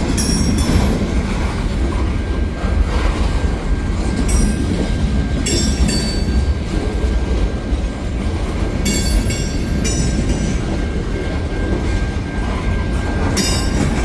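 CN freight train cars rolling past with a steady low rumble. Short spells of high wheel squeal come every few seconds.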